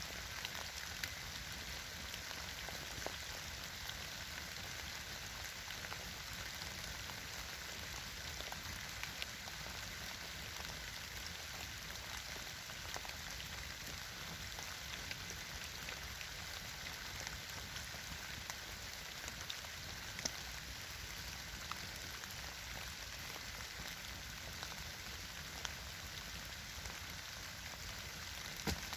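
Campfire burning with a steady crackling hiss and scattered sharp pops.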